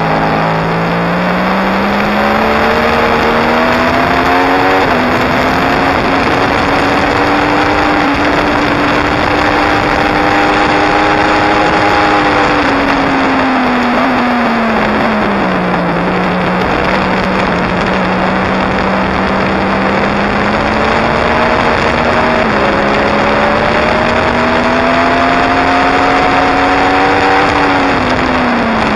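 2016 Yamaha R1's crossplane inline-four running hard on track, under a loud rush of wind over the bike. Its pitch climbs through the gears in the first few seconds and drops away as the bike slows about halfway through. It then climbs again and falls off near the end.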